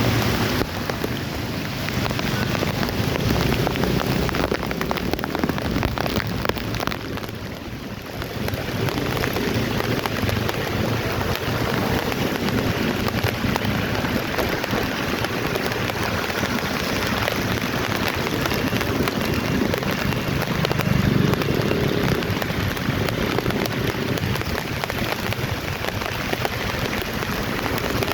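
Heavy rain falling steadily, a dense even hiss, with a low rumble swelling about three-quarters of the way through.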